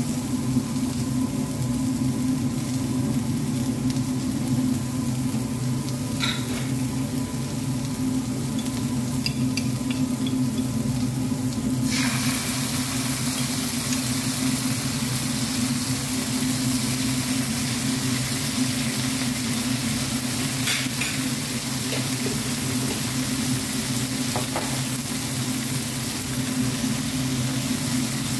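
Sliced onions and green peppers sizzling in a hot wok over a steady low hum. About twelve seconds in, the sizzle jumps louder and hissier and stays that way as orange tikka masala paste goes into the pan. A few light utensil clicks are heard.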